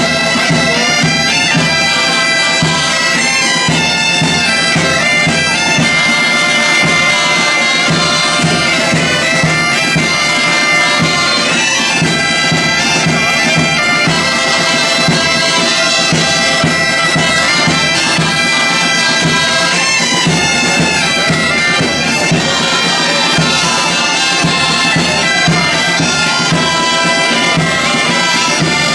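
A band of loud reed wind instruments plays a tune over steady held tones, with a regular drum beat underneath.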